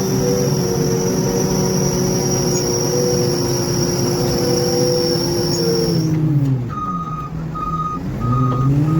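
Heavy diesel construction machine running hard with a high whine over it. About six seconds in, the whine stops and the engine drops to a low idle, then revs back up, while a reversing alarm starts beeping about twice a second as the machine backs up.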